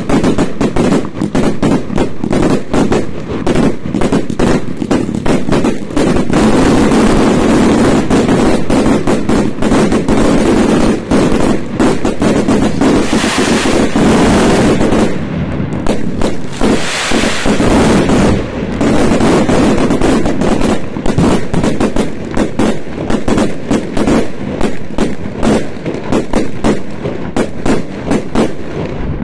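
Fireworks going off densely at New Year's midnight: rapid, overlapping bangs and crackles without pause. Two stretches of hissing crackle swell up around the middle.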